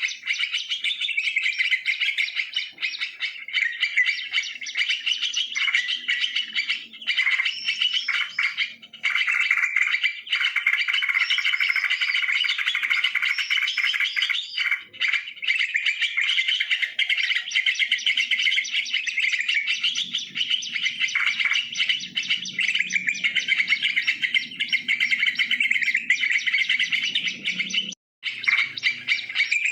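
Yellow-vented bulbuls (trucukan) chattering and calling continuously, many birds at once. A lower sound runs underneath for several seconds near the end. There is a brief drop-out near the end.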